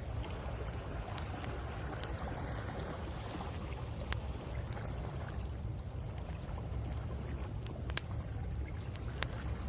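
Sea waves washing on the shore with a steady low rumble, and a wood bonfire crackling with scattered sharp pops. The loudest pop comes about eight seconds in.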